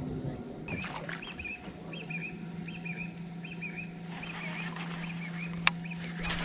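A bird calling a long run of short, repeated chirps, with a steady low hum underneath from about two seconds in and one sharp click near the end.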